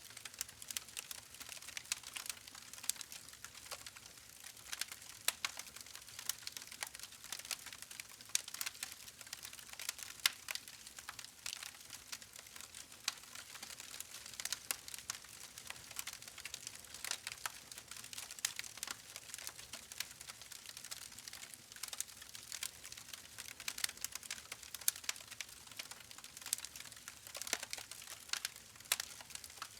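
Campfire crackling: a dense, irregular stream of sharp pops and snaps from burning wood over a soft hiss.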